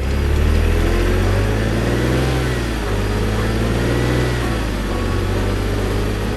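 Heavy construction vehicle's engine running loudly with a deep rumble, revving up and down twice in pitch.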